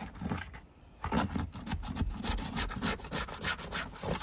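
Asphalt roof shingles being pried up off their sealant strip: a run of repeated rasping scrapes, with a short pause just under a second in.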